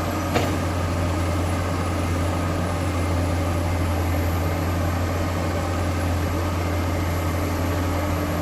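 Heavy diesel engine of an excavator or dump truck running steadily at idle, a low, even hum. A short click comes about half a second in.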